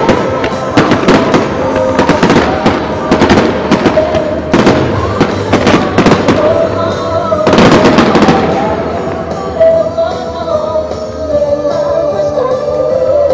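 Fireworks shells bursting in quick succession, sharp bangs over music playing through the show's loudspeakers. A dense cluster of bursts comes about eight seconds in. After that the bangs thin out and the music carries on alone.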